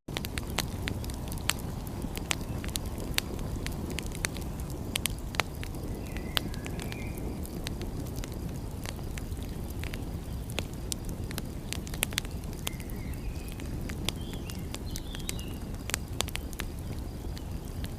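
Wood fire crackling, with frequent irregular sharp pops over a steady low rush. A few faint high squeaks come about six seconds in and again later.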